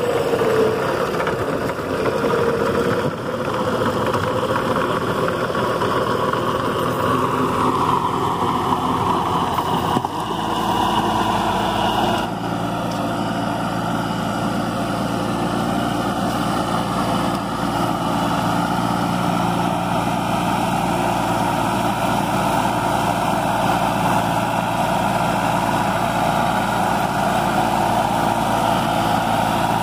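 Sonalika DI-20 mini tractor's diesel engine running steadily. Its note changes about ten seconds in and then holds an even, steady run.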